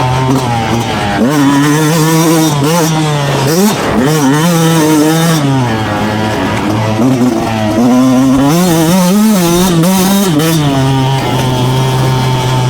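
Two-stroke motocross bike engine revving hard, its pitch climbing and dropping again and again as the throttle is opened and closed, with a sharp drop and climb about four seconds in.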